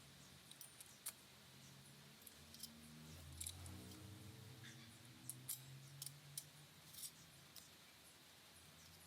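Faint, scattered light clicks and taps of small transmission parts being handled during assembly, over a low background hum.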